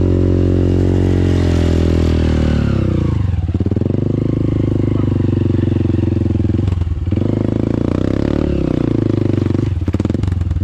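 Dirt bike engine being ridden under throttle: the engine note rises, drops sharply about three and a half seconds in, then holds, with brief dips around seven and ten seconds in as the throttle is rolled off and opened again.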